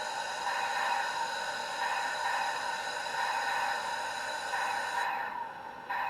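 Model cab-forward steam locomotive's Soundtraxx Steam2 sound decoder playing steam sounds through a small speaker: a steady hiss with ringing tones.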